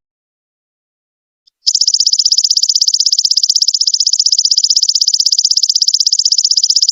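Golden locust (belalang emas) call: a high, rapidly pulsing buzz that starts about a second and a half in after a silent gap, then keeps going steadily.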